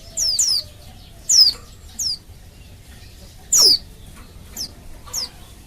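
Female white-eye (pleci) giving its call: short, high, steeply falling notes, singly and in quick pairs, about seven in all, the loudest about three and a half seconds in. This is the call of a female in breeding condition, used to get male white-eyes to answer and sing.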